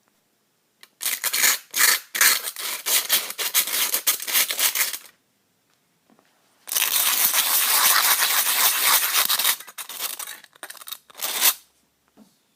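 Sandpaper rubbed over the freshly cut edge of an aluminium drink can, in two spells of quick scratchy strokes with a short pause between them.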